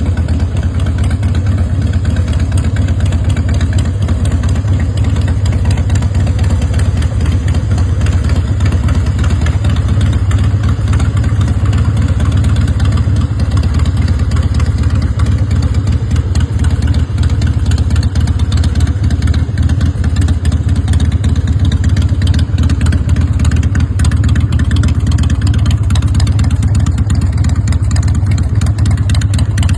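Harley-Davidson Softail's Twin Cam 88B V-twin engine idling steadily.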